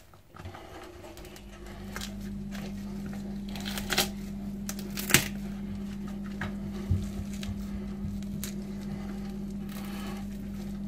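Hands pulling the meat layer off a raw lamb rib rack: a few scattered sharp clicks and soft handling sounds, over a steady low hum that starts about a second and a half in.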